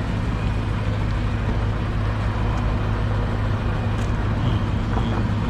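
Steady engine and road drone heard inside a moving car.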